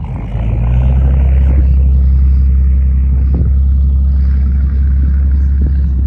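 Strong wind buffeting the phone's microphone: a loud, steady low rumble that builds up in the first half-second and cuts off suddenly near the end.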